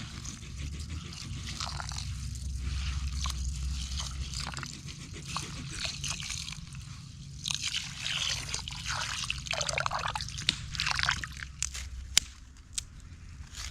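Water sloshing and dripping, with scattered sharp clicks and knocks.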